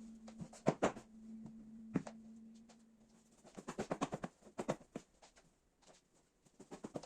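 Household objects being handled: a run of light clicks and knocks. A steady low hum runs under them for the first three seconds or so, then stops.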